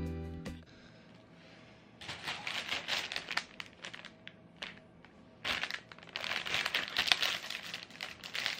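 Guitar music ends in the first half second; then plastic and paper packaging crinkles and rustles in two spells, about two seconds in and again from about five and a half seconds, as a mini chocolate selection box is handled and opened.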